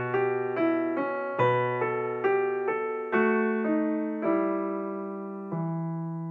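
Background piano music: single notes struck about twice a second, each ringing and fading. The notes slow down near the end and settle on a low held note that dies away.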